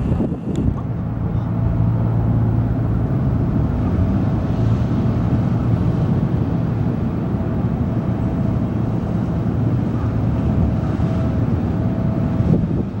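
Car ferry's engines giving a steady low drone, with a faint held tone above it and rushing wind.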